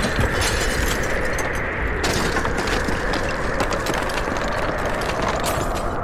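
Rock breaking up with a dense, continuous crackle and clatter of debris.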